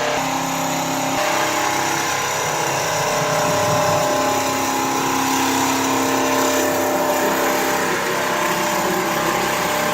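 Richpeace single-head quilting machine running steadily, a continuous mechanical hum with several held tones.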